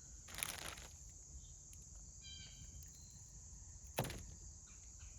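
Birds calling faintly in the background, with a short call a little past two seconds in. A brief rustle near the start and one sharp click about four seconds in.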